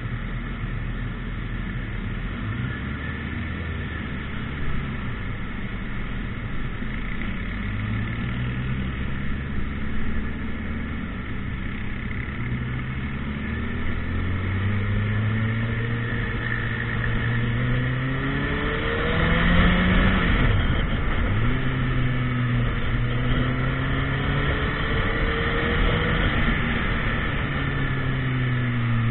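Honda CBR1000RR inline-four sportbike engine heard from on board. It runs low and steady at first, then pulls away through the gears, its pitch rising and dropping back again and again with each upshift. Rushing noise grows around the middle of the acceleration.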